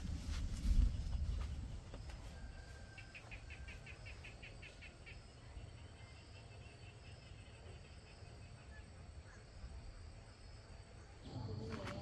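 Quiet outdoor ambience with a low thud in the first second, then a bird trilling in a quick run of short high notes, about seven a second, followed by fainter repeated notes.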